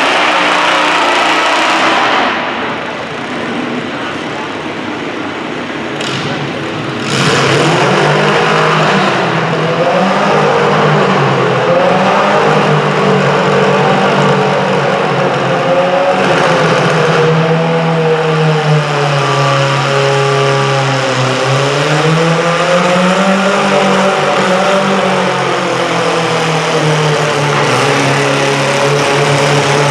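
Modified garden tractor engine running hard under load while pulling, its revs rising and falling; from about seven seconds in the engine note comes in strong and steady-pitched with repeated dips and swells.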